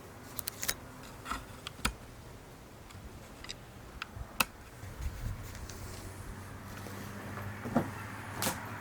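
Scattered light clicks and knocks at irregular intervals, typical of footsteps and handling noise while walking over a debris-strewn, stripped floor, over a faint steady hum.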